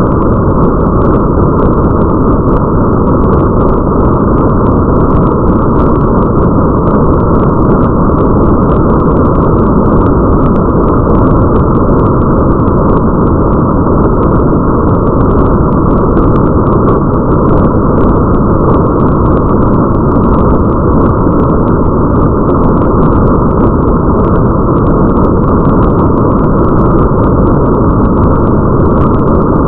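Steady rain ambience, heavy and muffled, with its sound held low and faint scattered droplet ticks above it; no change or pause.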